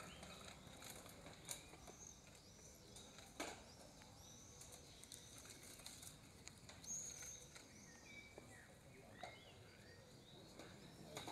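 Near silence with faint chirping of small birds and two soft clicks in the first few seconds.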